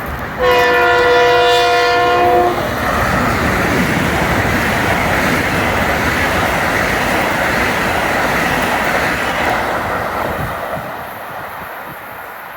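A train sounds its horn, a steady chord held for about two seconds, then rushes past the platform with a loud steady roar of wheels and air that fades near the end.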